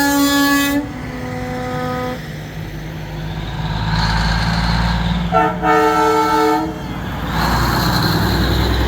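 Truck horns blasting twice, each a brief multi-note chord, the first right at the start and the second about five and a half seconds in, over the steady low running of diesel truck engines.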